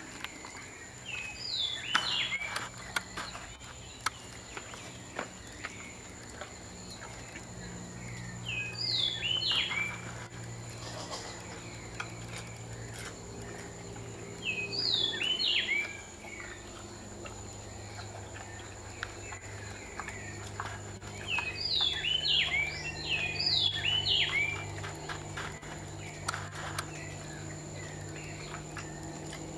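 A songbird sings short phrases of quick, down-slurred whistled notes four times, several seconds apart, the last phrase longer. A steady high tone and a low hum run underneath.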